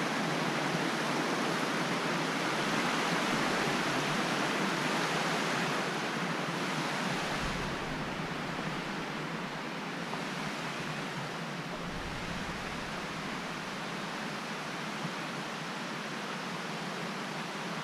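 Waterfall: a steady rush of falling water that eases slightly in level about six seconds in.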